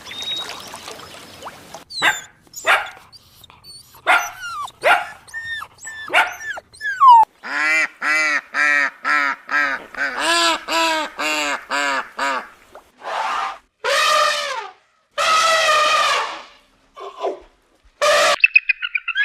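A run of animal calls: several quick sweeping calls in the first few seconds, then a fast series of about ten short, evenly spaced calls, followed by three longer drawn-out calls.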